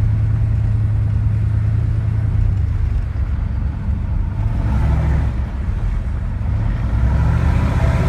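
6.5-litre Detroit turbo diesel V8 of a 1993 Chevy 1500 heard from inside the cab while driving, a steady low drone with the turbo's whistle. About halfway through the pitch shifts and the engine note broadens as it changes speed, then it settles again.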